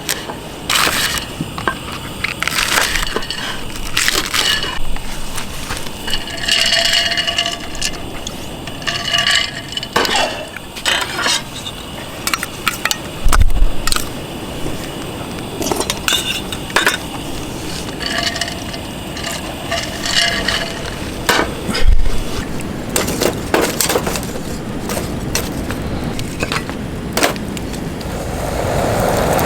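Scattered clinks and knocks of camp tableware and cooking gear, some of them ringing briefly, with sharp crackles between them and two heavier thumps, one about halfway through and one about three quarters of the way in.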